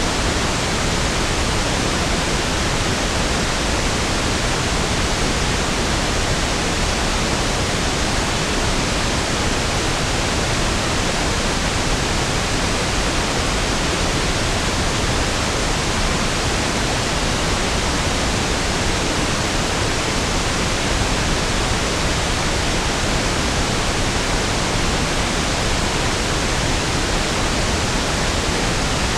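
Steady pink noise: an even, unchanging hiss with equal energy per octave, softer and deeper than white noise.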